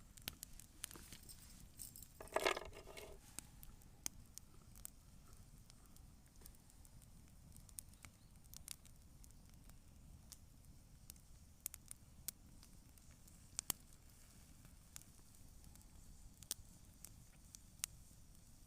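Wood campfire crackling faintly, with scattered sharp pops and ticks. About two and a half seconds in comes a single louder burst of crackling lasting under a second.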